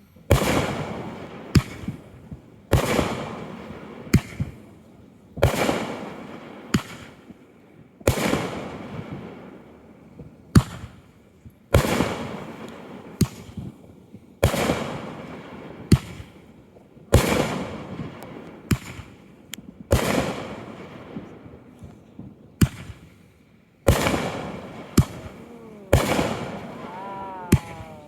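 Aerial fireworks bursting in quick succession, a sharp bang about every second or so, each trailing off in a fading echo. A few falling whistles come near the end.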